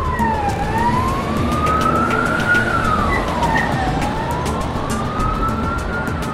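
Emergency vehicle siren wailing in a slow rise and fall, each sweep taking about three seconds, over a steady rumble with faint rapid ticks.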